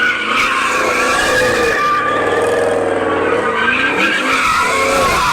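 A car drifting: tires squealing without a break while the engine revs hard, its pitch wavering up and down.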